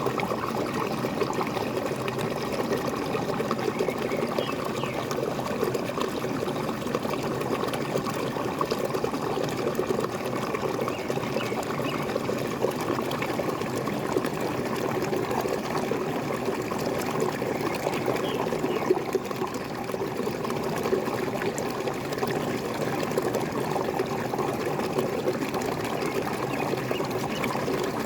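Waterfall splashing steadily, a continuous gurgling rush of falling water.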